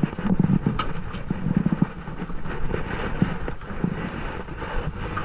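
A boat under way: a steady rumble with scattered knocks.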